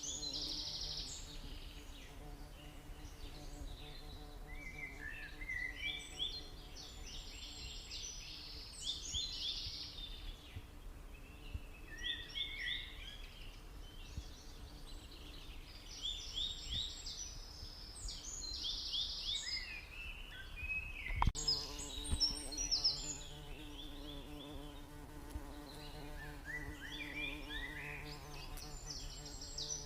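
Domestic canary singing: phrases of fast trills and rolling repeated notes with short pauses between them, over a steady low hum. A single sharp knock about 21 seconds in.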